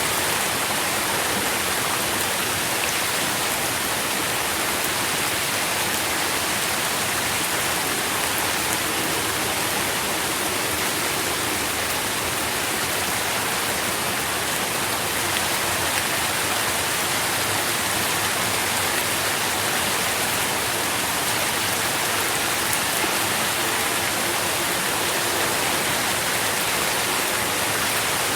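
Steady rain falling and pattering on surfaces, a dense, even hiss of many drops without a break.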